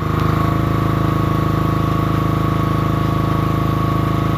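Portable generator engine running steadily under an electrical load, getting louder just at the start as the load comes on, with a steady high whine over the engine note.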